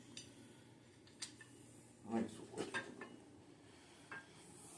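A few light, scattered metal clinks and knocks as cam bearing installer tool parts and bearings are handled.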